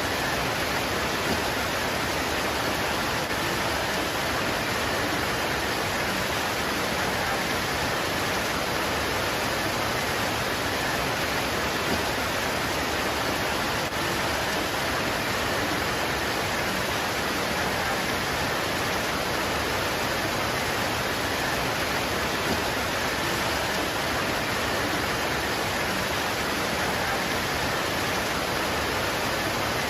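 Steady rain pouring onto leaves: an even, unbroken hiss with no let-up.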